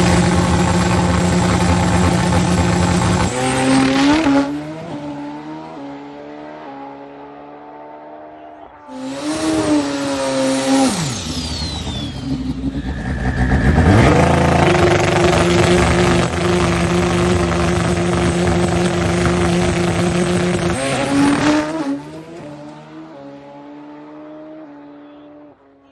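Turbocharged Pro Extreme drag motorcycles at full throttle, twice. Each time the engine holds a steady high-rev note for a few seconds, then steps up through the gears in quick jumps in pitch and fades away down the track. In between, the engine pitch swoops sharply down and back up.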